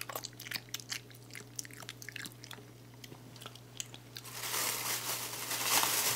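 Close-up wet mouth sounds of chewing soft mango, a run of small smacking clicks. Near the end a louder, longer rustling noise comes in. A steady low hum runs underneath.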